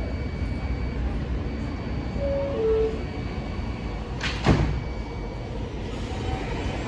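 R160 subway car's door chime, two short tones with the second lower, followed about two seconds later by the doors sliding shut with a sharp thud, over a steady low rumble.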